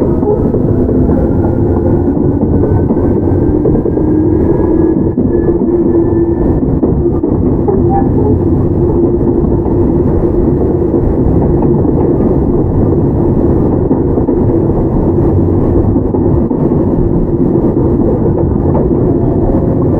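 Interior running sound of a Toyama Chihō Railway 17480 series (ex-Tokyu 8090) field-chopper electric train: a steady low rumble of wheels on track, with a whine from the traction motors and gears rising in pitch over the first several seconds as the train picks up speed, then running on at steady speed.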